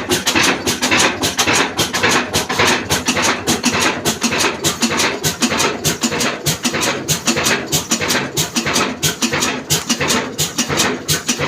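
Old Ruston diesel engine, rated 22 hp at 300 rpm, running steadily with a fast, even, rhythmic beat.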